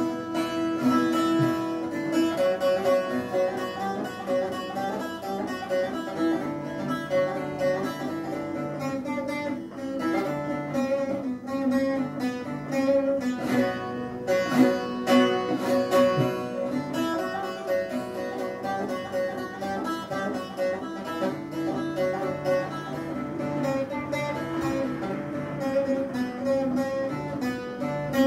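Bağlama (Turkish long-necked saz) played with a plectrum: a quick, ornamented folk melody of rapidly picked notes over a steady low drone.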